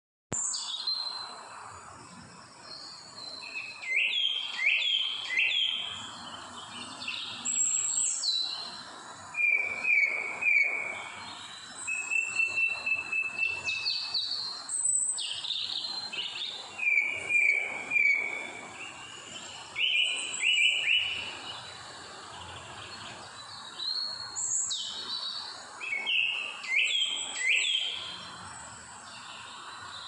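Birds singing: clusters of short whistled notes, some sweeping sharply up or down and some held flat, repeating throughout over a steady background hiss.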